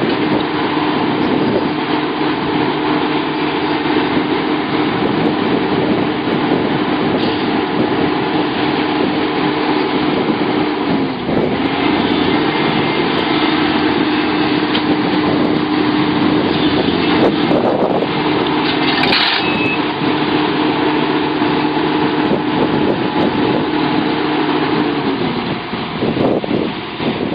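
Sumitomo SH700LHD-5 excavator's diesel engine running steadily under work. A steady whine runs over it, dips briefly about eleven seconds in and fades out near the end, with a few sharp knocks a little after the middle.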